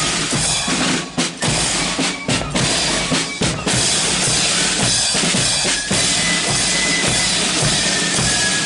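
Marching flute band's drums playing: bass drum and snare drums with sharp rim clicks, broken by a few short gaps in the first few seconds. High flute notes come in near the end.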